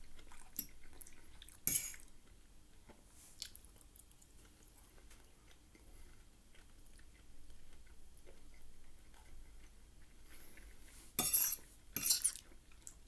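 Cutlery clinking and scraping on a plate of curry and rice: a few light clicks in the first few seconds, a long quiet stretch, then two loud scrapes close together near the end.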